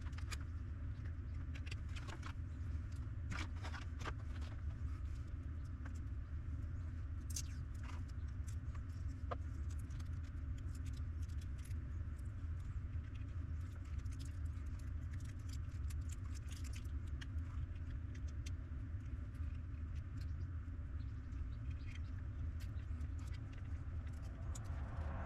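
A steady low hum with scattered faint clicks and small taps.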